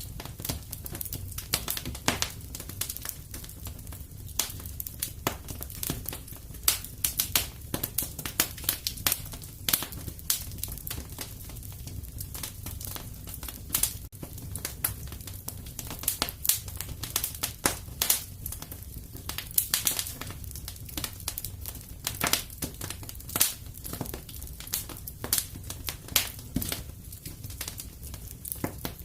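Wood fire burning in a fireplace: a steady low rumble with dense, irregular crackles and sharp pops throughout.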